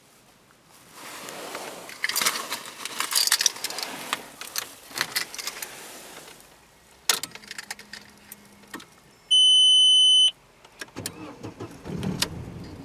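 Car keys jangle and click, as at the ignition of a 1999 Volkswagen Passat B5. A low hum follows for under two seconds, then one loud, steady electronic beep from the dashboard lasting about a second.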